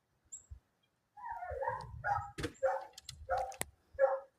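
A dog barking in a quick series of short barks, a couple to three a second, starting about a second in and running almost to the end.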